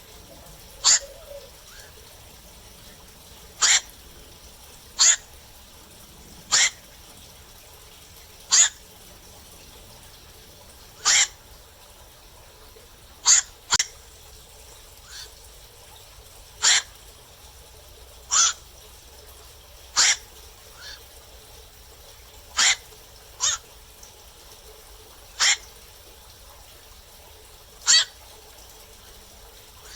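Black-crowned night heron calling: short single calls about every two seconds, some in quick pairs, with a few fainter calls between, over a steady faint hiss.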